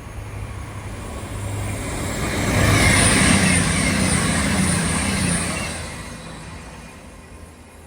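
Passenger train passing at speed: its rushing noise builds, holds loudest for about three seconds in the middle, then fades away, with a high steady whine over the rush while it is closest.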